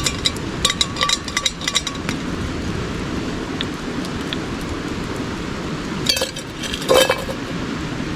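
Ground beef sizzling in olive oil in a metal pot over a campfire, a steady crackling hiss with sharp clicks in the first couple of seconds. Metal utensil clinks against the pot about six to seven seconds in.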